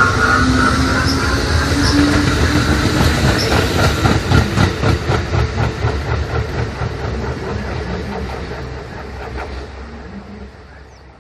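A train running past, its wheels giving a rapid clickety-clack over the rail joints with a steady whine, then fading away as it recedes. The uploader films it for an abnormal noise it makes.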